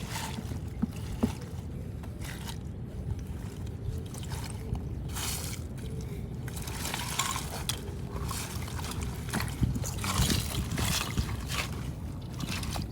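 Water splashing and sloshing in repeated short bursts over a steady low rumble.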